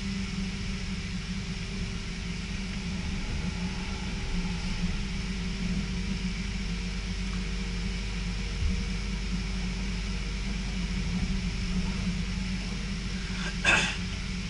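Steady low rumble and hum of an NS passenger train running on the rails, heard from inside the carriage, with a short, sharp clatter about a second before the end.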